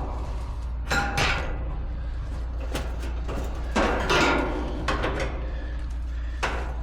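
Outdoor air-conditioner condenser unit running with a steady low hum, with several irregular knocks and clanks over it. The noise is one the technician traces to a failing condenser fan motor.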